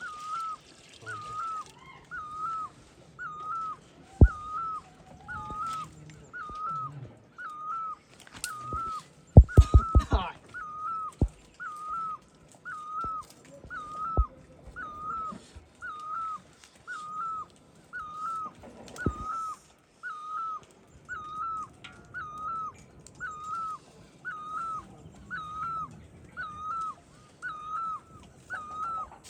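An animal's short high call, repeated steadily about once a second, with a few sharp knocks, the loudest a quick cluster of them near the middle.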